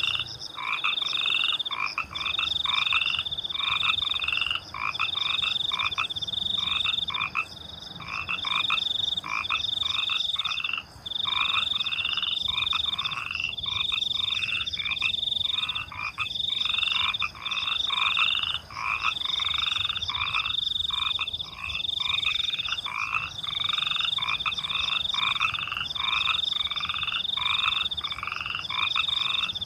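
A night chorus of frogs croaking in repeated calls, about one a second, over a continuous high trilling of crickets.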